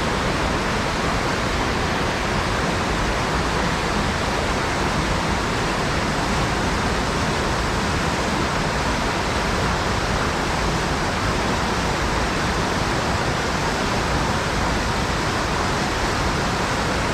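Steady rushing of a mountain-fed stream's flowing water.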